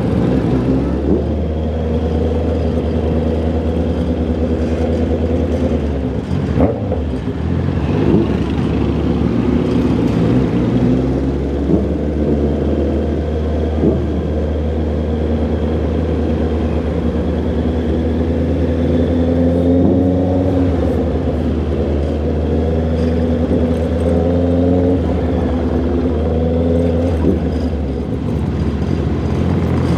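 Honda CB650R's inline-four engine and exhaust running under way, the pitch rising and falling gently with the throttle, with a brief drop about six to seven seconds in, like a gear change.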